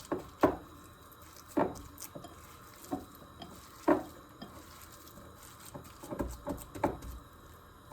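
Hands squeezing and patting a wet grated-vegetable Manchurian mixture: a handful of soft, irregular pats and squelches, a few seconds apart.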